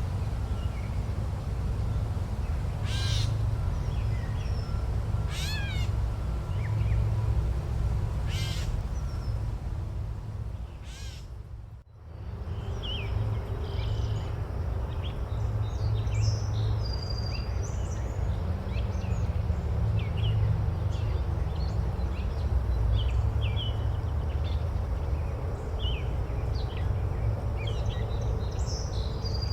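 Forest ambience: a bird gives three loud, harsh calls a few seconds apart. After a brief fade-out and back in, many small birds chirp over a steady low rumble.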